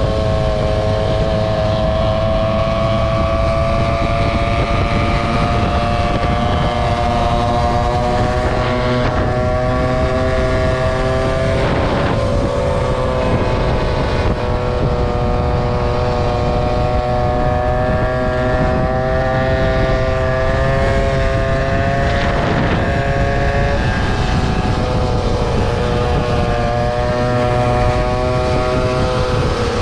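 Motor scooter engine running while under way, its pitch drifting slowly up and down with speed, over a heavy rumble of wind on the microphone.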